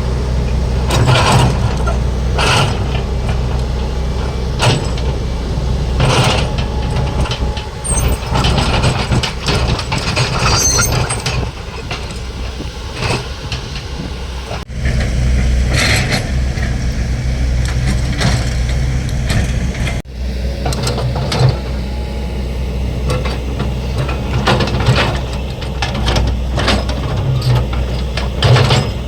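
Hydraulic excavator's diesel engine running steadily under load, with irregular metallic knocks and clanks from the bucket and rubble every second or two, and a brief high squeak about ten seconds in.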